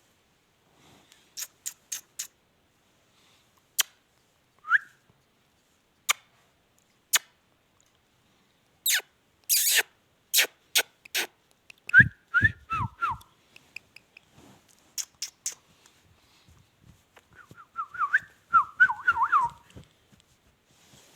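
Indian ringneck parakeet whistling in short chirps: a single rising whistle about five seconds in, a few more around the middle and a quick run of chirps near the end, among sharp clicks and taps.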